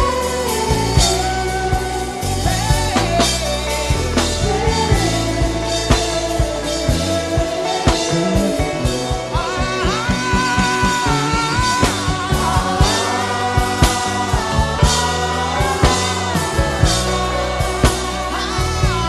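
Worship music: a wordless hummed vocal melody, sliding smoothly between notes, over a backing band with drums and bass.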